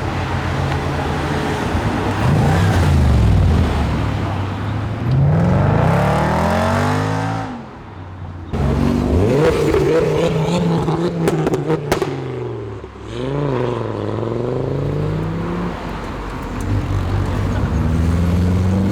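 Modified cars' engines revving and accelerating away in turn, the pitch climbing with each rev and dropping between gears. There are several rises and falls, and sharp cracks come about eleven to twelve seconds in.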